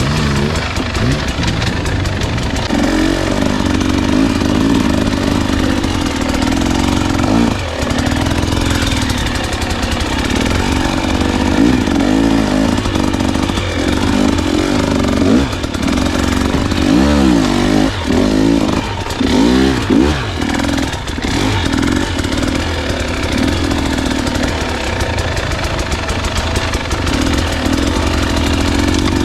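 Husqvarna enduro dirt bike engine being ridden, its revs rising and falling with the throttle, with a run of quick revs and drops about halfway through.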